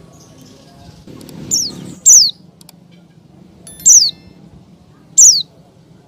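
Female pleci (white-eye) giving short, sharp call notes that drop steeply in pitch, three loud ones about a second and a half apart plus a fainter one just before them. This is the female's call to a male, used as a lure to set male white-eyes singing.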